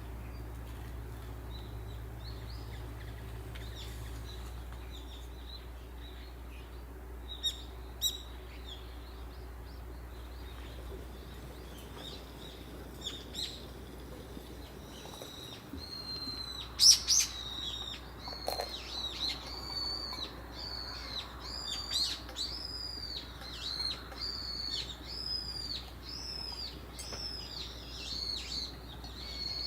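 Small bird calling: scattered high chirps, then a regular run of short, high, arching notes repeated about once or twice a second through the second half, over a steady low hum.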